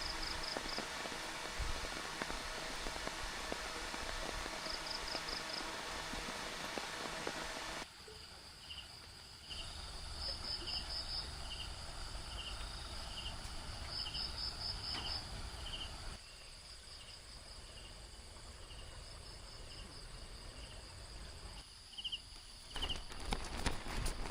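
Night insects chirping in short repeated trills, with a slower regular chirp beneath, over the steady hiss of rain; the rain noise drops away suddenly about eight seconds in. A few knocks near the end.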